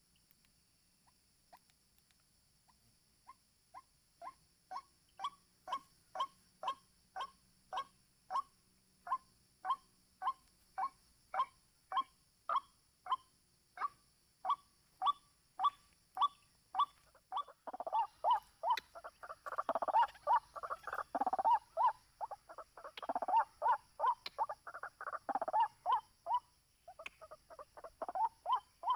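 White-breasted waterhen calling. A single croaking note repeats about one and a half times a second, growing louder over the first few seconds. A little past halfway it breaks into the species' dense, overlapping chorus, then returns to the repeated note near the end.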